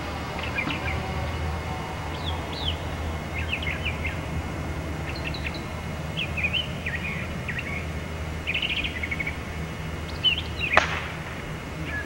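Birds chirping in short repeated calls over a steady low hum, with one sharp click near the end.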